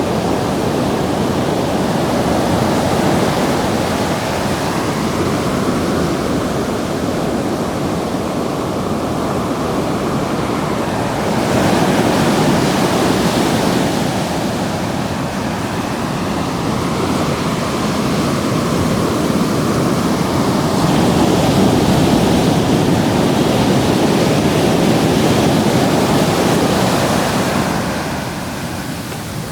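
Ocean surf: waves breaking and washing up the beach in a continuous rushing noise, with swells as each wave comes in, a strong one about twelve seconds in and a longer, louder one in the second half that fades near the end.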